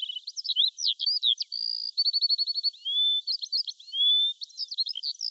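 A songbird singing a continuous, varied song of quick chirps and slurred whistles, with a rapid trill of evenly spaced notes about two seconds in.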